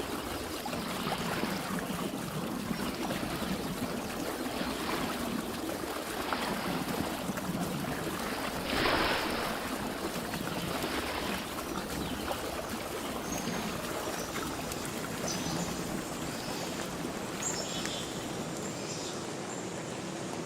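Steady rush of flowing water, with a brief louder surge about nine seconds in and short high bird chirps in the second half.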